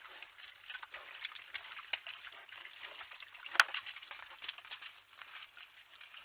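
Animals feeding on a forest feeding table, a dense run of small crunching and crackling clicks as the food is eaten up. One sharp, loud click comes about three and a half seconds in.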